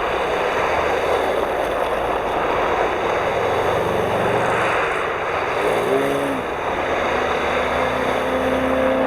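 Race cars' engines running on an ice track over a steady rushing noise; about six seconds in one engine's pitch rises and falls as it revs, and a steady engine tone holds near the end.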